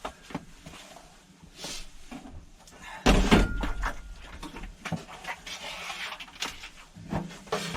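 Knocks and bumps of something being handled, with a sudden loud clatter and rustling about three seconds in, followed by scattered sharp knocks.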